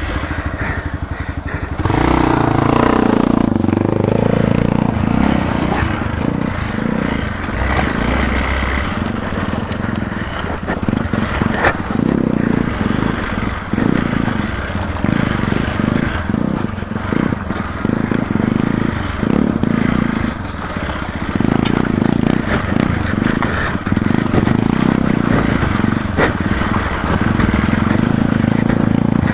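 Hero XPulse 200 4V's single-cylinder engine revving up and easing off again and again, in repeated surges every second or two, as the dirt bike is ridden on an enduro track.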